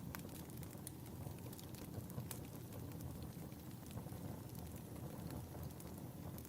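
Fireplace fire burning with a steady low rumble and a few scattered sharp crackles.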